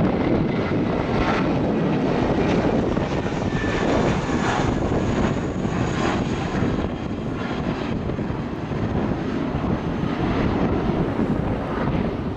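Airliner engines running steadily as the aircraft taxis close by, a constant loud rush.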